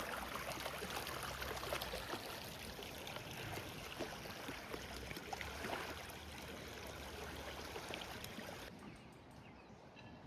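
Creek water running steadily over its bed, a constant rushing wash; it drops away abruptly a little before the end.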